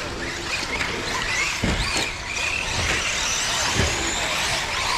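Radio-controlled off-road cars racing on a dirt track, their motors whining up and down in pitch with the throttle. Two dull thumps come about two seconds apart.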